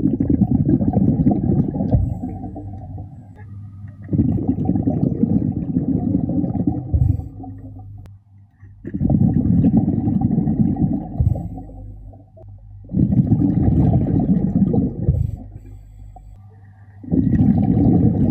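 Scuba diver exhaling through a regulator underwater, the bubbles rumbling in five long bursts of about three seconds each, with short quiet breaks for each inhale.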